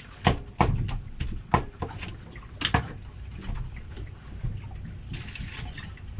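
A few sharp knocks and clinks in the first three seconds, then red wine being poured out, the pour loudest about five seconds in.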